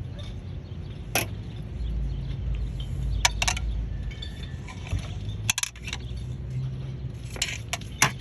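Wire coat hanger clicking and tapping against a car door as it is worked into the gap to reach the lock, a handful of sharp metallic clicks scattered through, some in quick pairs. A steady low rumble sits underneath.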